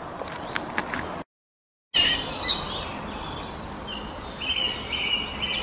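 Woodland birds singing: many quick high chirps and song phrases, with a rapid trill near the end. The sound cuts out completely for under a second about a second in.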